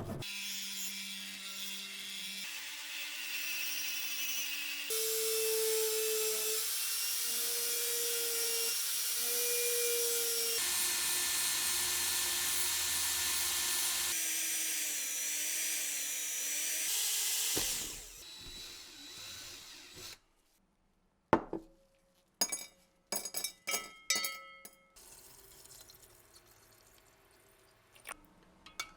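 Tool work on the metal parts of an old Nagant revolver: steady grinding and rubbing for about eighteen seconds that changes abruptly several times, then a run of sharp metallic clinks and knocks.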